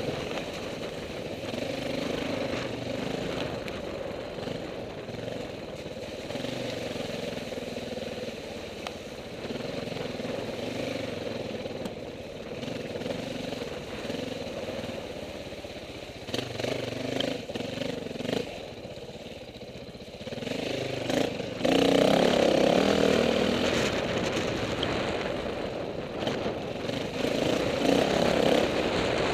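Dirt bike engine running with the throttle repeatedly opening and closing, its pitch rising and falling; it gets noticeably louder about three-quarters of the way through.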